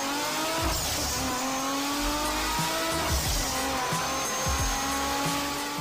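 A car engine accelerating hard, its pitch climbing slowly and dropping back several times, like a car going up through the gears.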